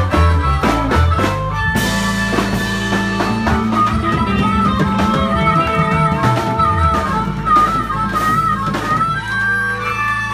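Live band playing an instrumental passage between sung lines: guitar, bass and drum kit, with a wavering held lead line over a steady bass.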